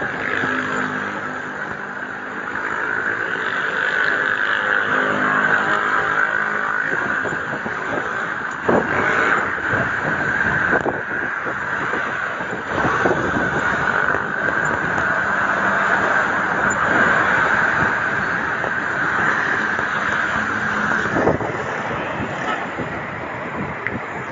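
Road traffic noise heard while riding: a steady rush with motor vehicles passing, their engines heard for a few seconds near the start and again near the end, and a few brief knocks.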